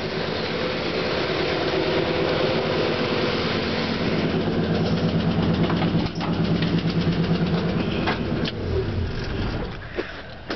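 Ford F-100 pickup's engine idling steadily minutes after a cold start in near-freezing weather; the sound drops off near the end.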